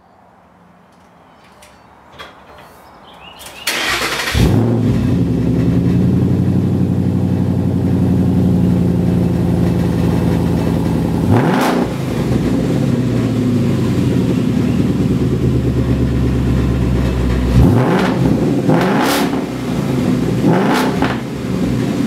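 2012 Ford Mustang GT's 5.0 L V8 with the mufflers removed, starting up about four seconds in and settling into a steady high idle. It is revved once briefly about halfway, then blipped several times in quick succession near the end.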